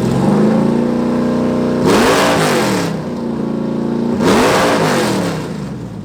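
Car engine revving through a loud exhaust: held at raised revs, then two sharp blips of the throttle about two seconds apart, each rising and falling in pitch.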